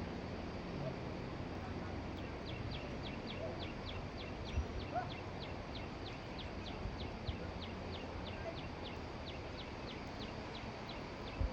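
A bird calling: a short, high, slightly falling note repeated evenly about three to four times a second, starting a couple of seconds in and running for about nine seconds, over steady outdoor background noise.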